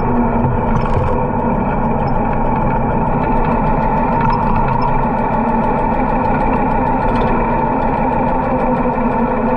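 Harley-Davidson motorcycle engine running steadily under way.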